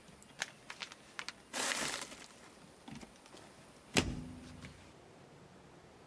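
Scattered sharp clicks and handling knocks, a short rushing noise about one and a half seconds in, then one loud thud about four seconds in with a brief low hum after it.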